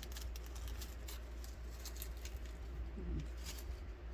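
Small scattered clicks and taps of beads being picked through and handled, over a low steady hum.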